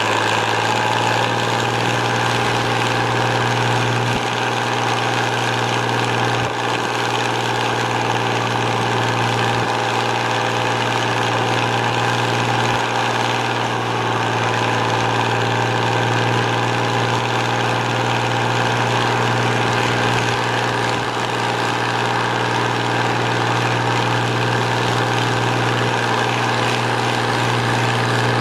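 Fiat 110-90 tractor's diesel engine running steadily under way on the road, heard from the cab through the open sunroof, with a constant low hum.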